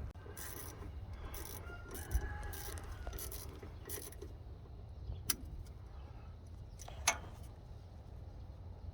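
Hand tools and metal parts being handled during fuel-system work on a non-running tractor: short scraping and clinking sounds, then two sharp metallic clicks a couple of seconds apart, over a steady low rumble.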